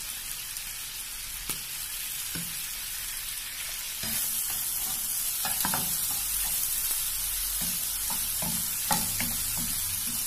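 Prawns shallow-frying in oil with chopped ginger and garlic, sizzling steadily, while a wooden spatula stirs them with scattered scrapes and knocks against the pan. The sizzle grows louder about four seconds in.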